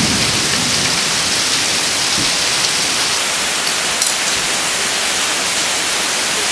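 Heavy downpour: a steady, loud hiss of rain, with runoff pouring off the porch roof edge in streams like a waterfall.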